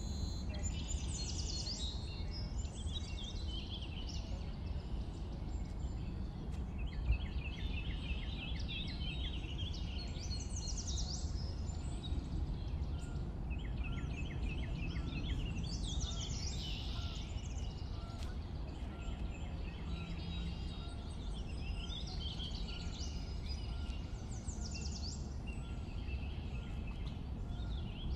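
Several birds singing, with short trilled and whistled song phrases repeating every few seconds, over a steady low outdoor rumble.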